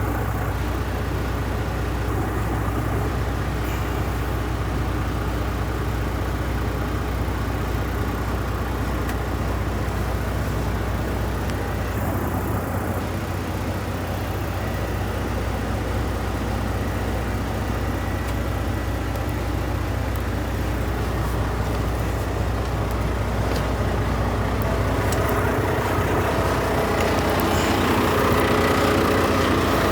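Diesel engine of a 2020 Volvo VNL 860 semi truck tractor (D13) idling steadily, growing a little louder and fuller near the end.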